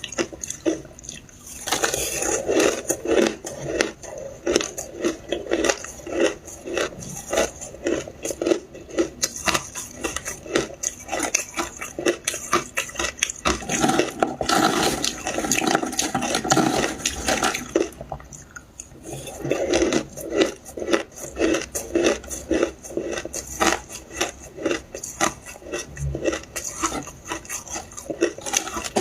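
Shaved ice with milk powder being crunched and chewed close up: a fast, steady run of crisp crunches that pauses briefly about a second in and again about two-thirds of the way through.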